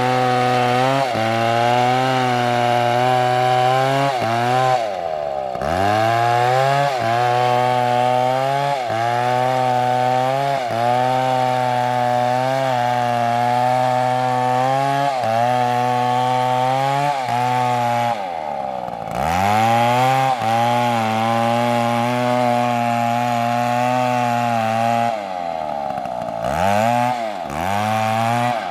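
Large two-stroke chainsaw running hard at high revs, its pitch wavering under load as it cuts. The revs drop and pick up again about five seconds in, about two-thirds of the way through, and twice near the end.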